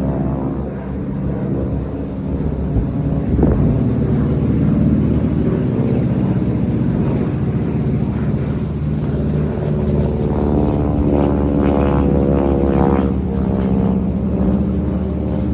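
Propeller-driven WWII fighter planes flying, their piston engines droning steadily.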